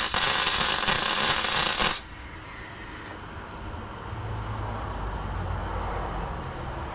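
Welding arc crackling and hissing steadily for about two and a half seconds while a weld is laid on exhaust tubing, then cutting off abruptly about two seconds in. A low hum follows, with two brief faint hisses near the end.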